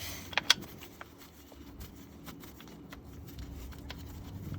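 Small tool and bolt handling during work on the oil pan bolts: two sharp metallic clicks about half a second in, then scattered faint clicks and taps over a low hum.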